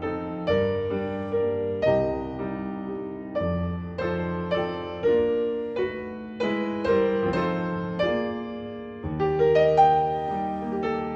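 Background piano music: a classical piece of single struck notes and chords, each ringing and fading before the next.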